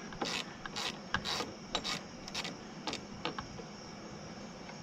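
Ratchet wrench worked in short rasping strokes, about two a second, loosening the clamp on the car battery's negative terminal; the strokes thin out near the end.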